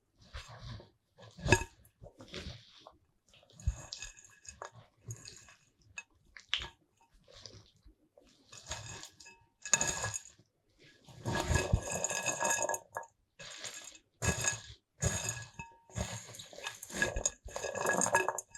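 Kitchen utensils and dishes being handled during food preparation: a run of short clinks, knocks and scrapes, with longer scraping stretches about two-thirds of the way in and near the end.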